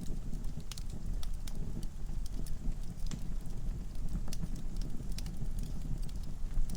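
Logs burning in a fireplace: a steady low rumble of flames with irregular sharp crackles and pops, several a second.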